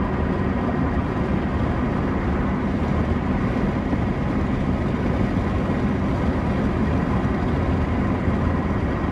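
Steady low rumble of a running motor vehicle, with a faint steady hum over it, unchanging throughout.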